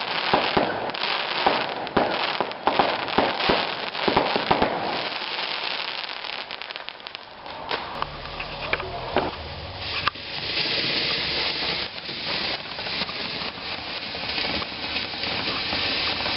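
Fireworks going off: a rapid run of sharp bangs and crackles for the first few seconds, then, about ten seconds in, a steady hiss with scattered crackling.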